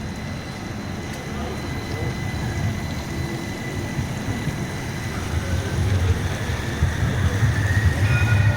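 Rain on a city street, a steady hiss, under a low traffic rumble that builds toward the end.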